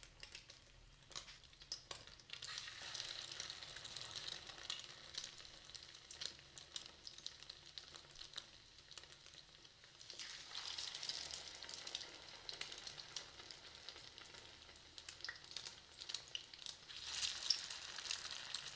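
Egg-coated potato cutlets shallow-frying in hot oil in a pan: a steady sizzle with small crackling pops. The sizzle swells as more cutlets are laid into the oil, about ten seconds in and again near the end.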